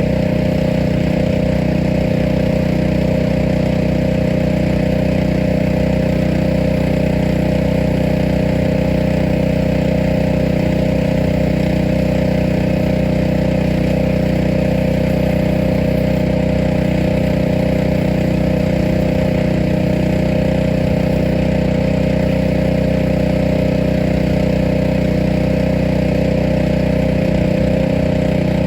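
A steady, unchanging machine drone like a running motor or engine, holding one even pitch throughout.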